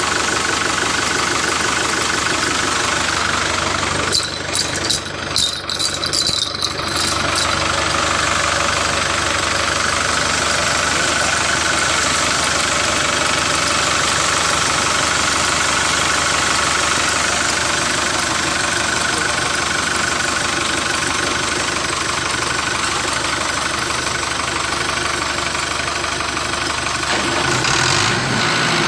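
An engine or motor running steadily, with a patch of clicks and knocks about four to seven seconds in.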